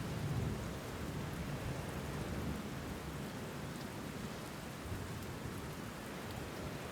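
Steady rain falling, with a low rumble of thunder, strongest in the first half second.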